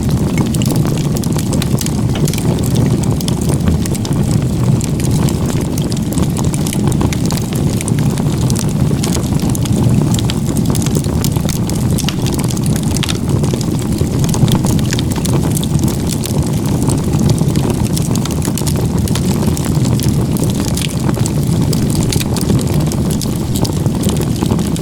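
Wood fire of split firewood stacked in a log-cabin crib, burning strongly: a steady low rush of flame with frequent crackles and pops from the wood.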